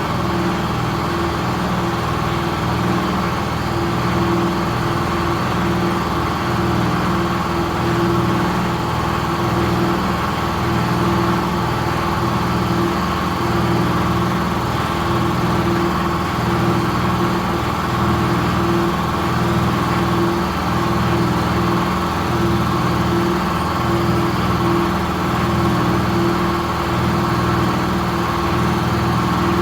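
A motor running steadily with an even hum, unchanging in pitch and level.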